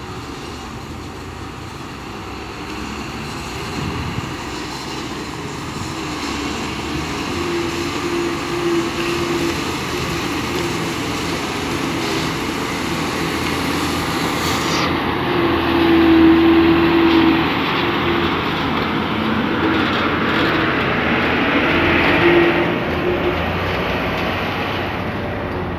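A heavy truck running and driving on a road, with continuous engine and road noise. An engine drone swells and fades several times and is loudest a little past the middle.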